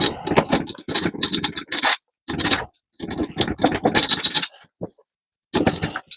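Hand file scraping across a damaged screw head to dress the burrs off. It comes as a series of short rasping strokes with brief pauses between them.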